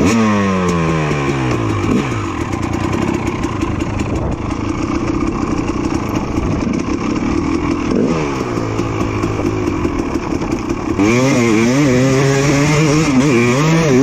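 Two-stroke dirt bike engine under throttle. A rev falls away at the start, then the engine runs steadily, with another rev about eight seconds in. From about eleven seconds it is louder, with the throttle worked rapidly up and down. A light clattering runs through the first few seconds.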